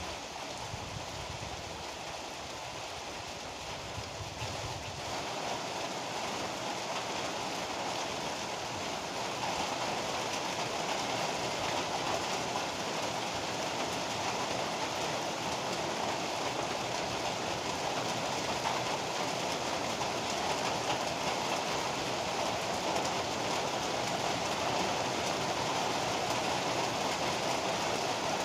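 Heavy rain pouring steadily, a dense even hiss that grows louder about five seconds in and again near ten seconds. A low rumble underlies the first few seconds.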